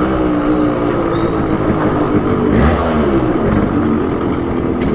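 Yamaha RX-135's single-cylinder two-stroke engine, extremely loud, under way on the throttle. The engine note falls, climbs again near the middle, then drops off.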